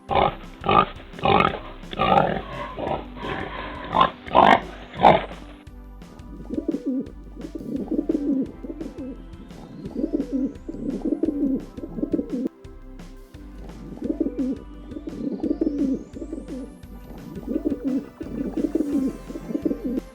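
Pig grunting and squealing in a run of short, loud calls over background music for about the first five seconds, then a different recording takes over: low calls repeated in phrases about every two seconds.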